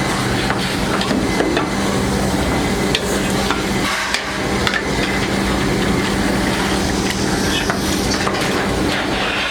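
Metalworking workshop noise: a machine hums steadily while frequent light knocks and clicks of metal on metal go on irregularly throughout.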